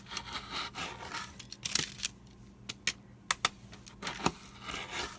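Paper being cut and handled: rustling and crinkling with several sharp clicks.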